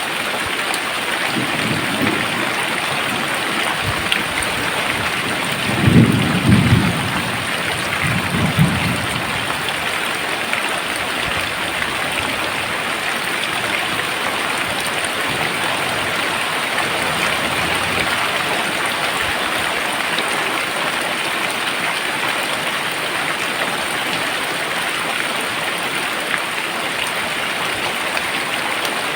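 Very heavy rain pouring down steadily. Thunder rumbles low a few times in the first ten seconds, loudest about six seconds in.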